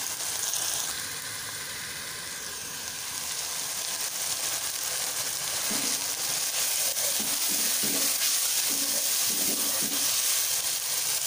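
Onion-tomato masala sizzling in ghee in a nonstick pan as it is stirred with a wooden spoon, the ground spices just added. The sizzle grows louder about halfway through.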